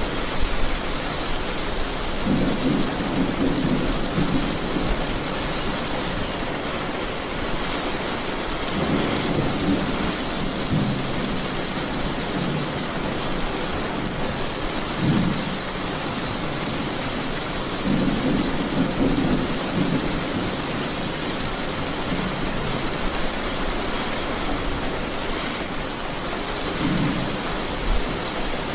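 Steady heavy rain hissing, with low thunder rumbles swelling and fading several times.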